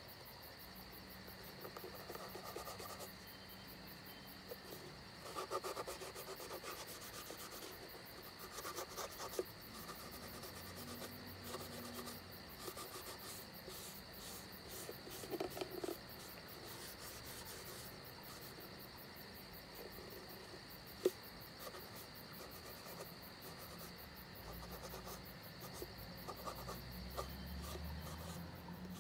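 A paper towel dampened with isopropyl alcohol rubs over the painted surface of a faux pumpkin in short bouts of wiping, soft and quiet. A faint steady high-pitched insect chirring runs behind it, and there is one sharp tick about two-thirds of the way through.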